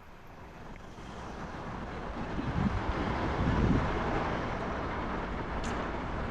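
Wind rushing over the microphone of a moving bicycle, with road and traffic noise. It builds over the first couple of seconds, gusts low around the middle, then holds steady.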